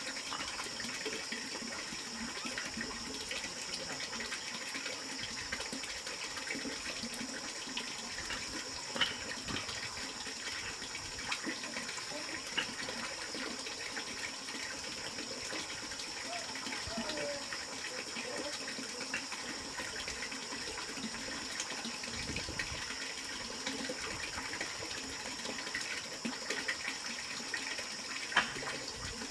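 Steady running water, with a few light clicks and knocks, one sharper about nine seconds in and another near the end.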